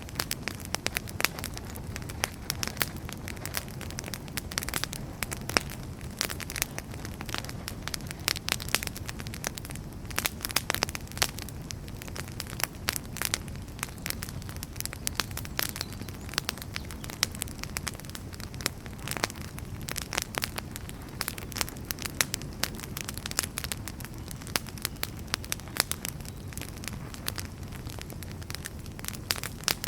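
Wood fire burning in a fireplace: irregular sharp crackles and pops from the burning logs over a steady low rush of flame.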